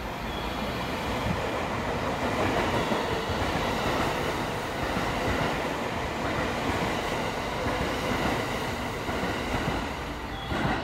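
Limited express Kuroshio train running through the station without stopping: a steady rush of wheels on rail that swells over the first second or two, holds, then eases off. A single sharp knock comes just before the end.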